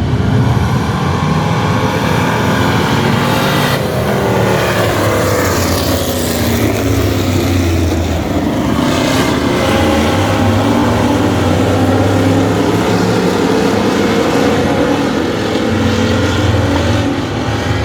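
Vintage stock car engines racing on the track, running loud, their pitch falling and rising again as the cars go by and accelerate.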